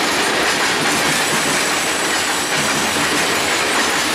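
Freight train cars rolling past, a steady, loud din of steel wheels running on the rails.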